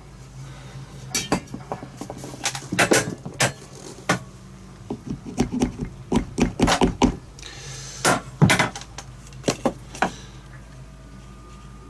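Metal engine parts of a Yamaha YB-1 clicking and knocking as a part held by a locating pin is worked into place by hand, a run of sharp irregular knocks over a faint steady hum.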